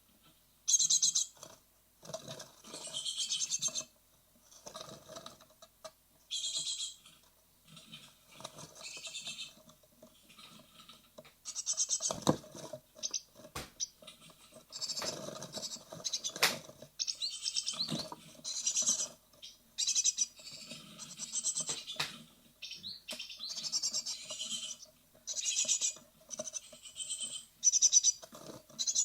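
Great tit nestlings calling in repeated bursts of high, rapid chirps, about one burst every second or two. Scratching, rustling and a few sharp knocks come from the chicks moving about in the nest box, close to leaving it.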